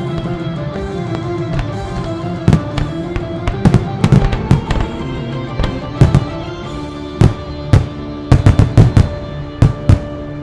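Firework bursts going off over music: sharp bangs start about two and a half seconds in, single at first, then in quick clusters through the second half. The display's music plays throughout.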